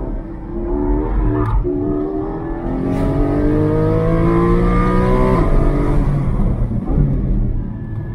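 Porsche Cayman GT4's naturally aspirated flat-six heard from inside the cabin, revving up under hard acceleration. The note climbs in pitch and drops back twice at upshifts, about a second and a half in and about three seconds in. It eases off about five and a half seconds in.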